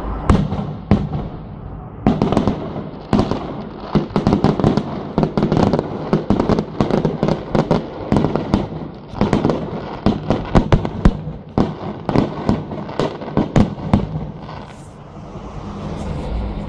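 Fireworks display: aerial shells bursting in quick succession, a dense run of bangs and crackles that thins out near the end.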